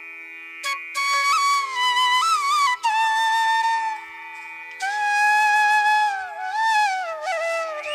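Background music: a flute playing a slow melody with sliding, ornamented notes over a steady drone, pausing briefly between two phrases near the middle.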